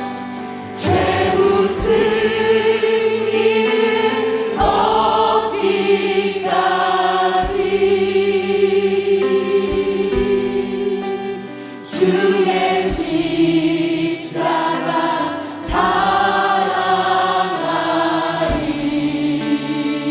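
Church choir singing a hymn in phrases of long held notes with vibrato, over instrumental accompaniment with occasional sharp percussive hits.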